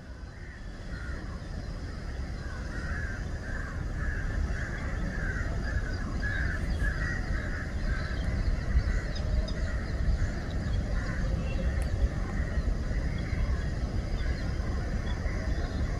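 A flock of waterbirds calling over and over in a busy, overlapping chatter, over a steady low rumble.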